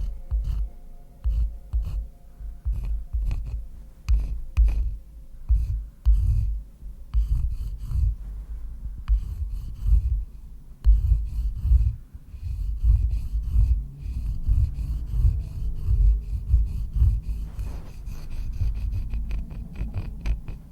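Close-miked ASMR trigger sounds: irregular scratching and rubbing strokes with heavy low thuds and crisp little clicks, in quick uneven succession.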